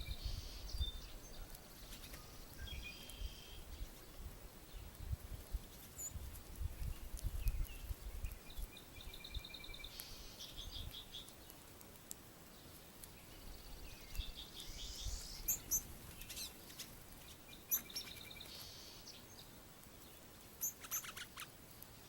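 Songbirds singing: short phrases of quick, high, repeated notes recur every few seconds, with low rumbling thuds underneath in the first half.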